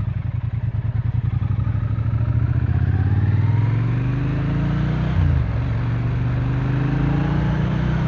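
Triumph Speed Twin 900's parallel-twin engine pulling under acceleration. Its pitch rises, drops at a gear change about five seconds in, then climbs again.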